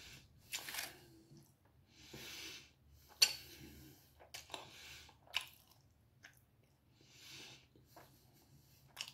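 Close-up chewing of a bread roll: soft, wet mouth noises every second or so, with a few sharp smacks, the loudest a little after three seconds in.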